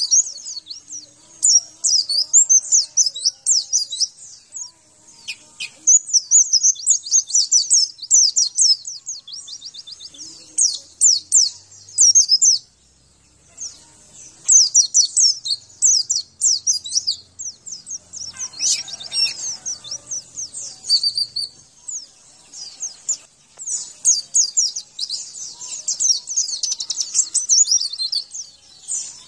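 Pleci (white-eye) singing a fast, high-pitched twittering song in runs of a few seconds with short pauses between them, as played in a masteran recording used to coax caged pleci into singing.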